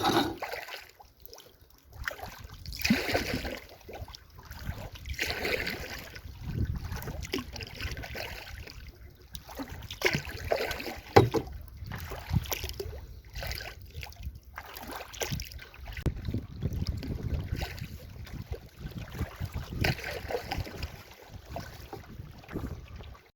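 Double-bladed paddle strokes dipping and splashing beside a canoe, a stroke every couple of seconds, with low wind rumble on the microphone.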